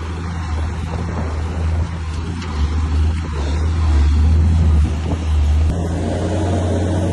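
Bulldozer's diesel engine running steadily with a deep low drone, easing off about three-quarters of the way through.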